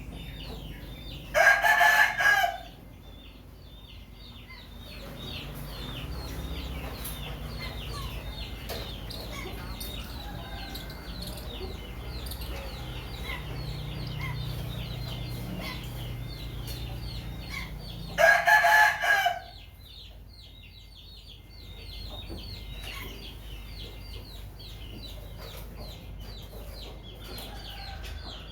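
A rooster crows twice, each crow about a second long, the first near the start and the second about two-thirds of the way through. Steady quick high chirping from small birds or insects runs underneath.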